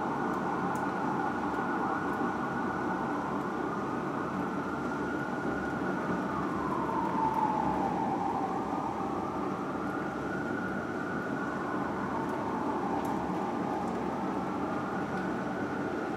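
Fire apparatus's Whelen electronic siren on a slow wail, its pitch slowly falling and rising, with one deep dip midway, over the low rumble of the truck's engine and road noise.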